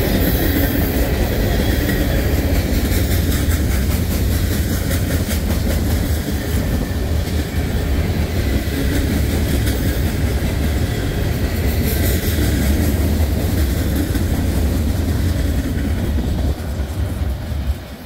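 CSX manifest freight train rolling past, a steady loud rumble of wheels on the rails with clickety-clack from the cars, dropping off near the end.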